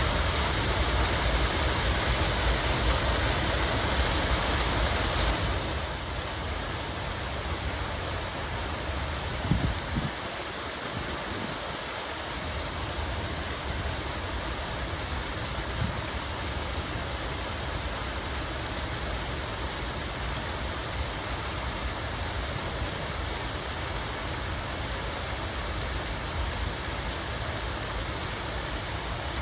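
Steady rush of falling water, with a low rumble underneath; it drops somewhat in level about five and a half seconds in.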